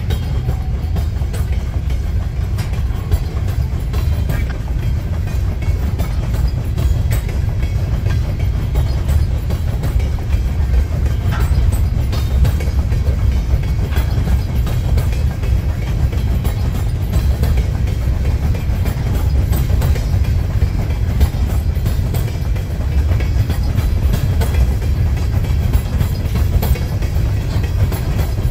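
Empty potash covered hopper cars of a freight train rolling past at steady speed: a continuous low rumble with scattered clicks of steel wheels over the rail.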